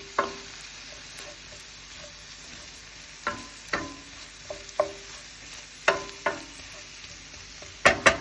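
Chicken and scrambled eggs sizzling steadily in an oiled skillet, with a cooking utensil clinking and scraping against the pan several times, two quick knocks near the end.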